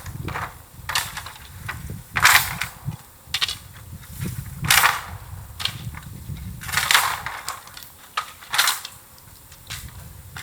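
Bamboo burning in a bonfire, crackling with loud sharp pops every second or so over a low rumble.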